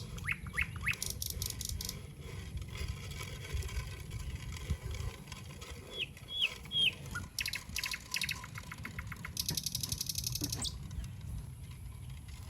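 Birds chirping: short, sharp falling chirps, with bursts of fast clicking trills, the longest near the end. A steady low rumble runs underneath.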